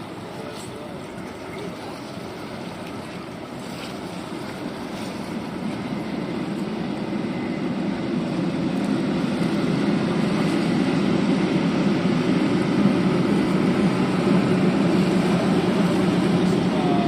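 Train approaching, its rumble growing steadily louder over several seconds, then holding at a loud steady level.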